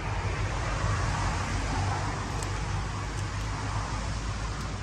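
Steady rumble of road traffic, swelling a little in the first couple of seconds as a vehicle passes.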